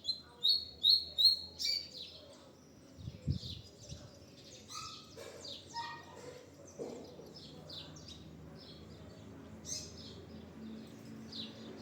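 A coleiro (papa-capim) seedeater singing: a quick run of loud, high chirps in the first two seconds, then softer, scattered notes. A single low thump about three seconds in.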